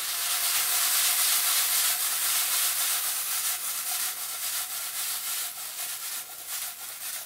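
Beans, onion and garlic sizzling in oil in a stainless steel frying pan as the pan is tossed, the sizzle loudest at first and slowly dying down, with a little scraping of food against the pan later on.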